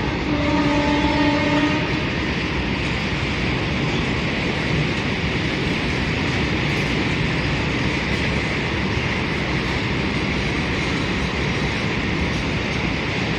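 Indian Railways freight train passing at speed: the locomotive's horn sounds into the first couple of seconds and then stops, leaving the steady noise of the long line of wagons running over the rails.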